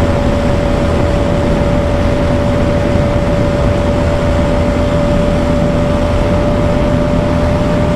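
Bajaj Pulsar NS200 BS6 single-cylinder engine held at high, steady revs at speed, with heavy wind rush on the microphone. Its whine holds one steady pitch that creeps up slightly.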